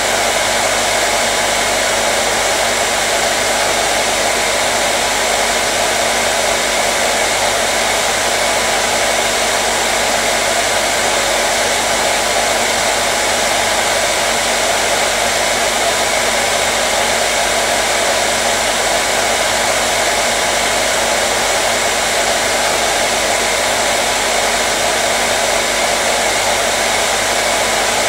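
Hair dryer running continuously at a steady speed: an even, unchanging blowing hiss with a faint motor hum.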